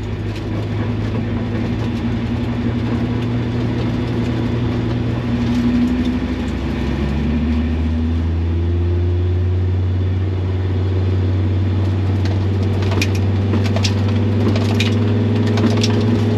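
Race car engine heard from inside the cockpit, running steadily at low revs as the car is driven slowly. The engine note changes about seven seconds in and then holds steady, with a few sharp clicks near the end.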